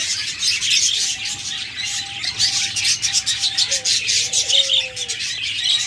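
A chorus of many caged budgerigars chirping and chattering at once, a dense, rapid high twittering, with a lower falling call from one bird late on.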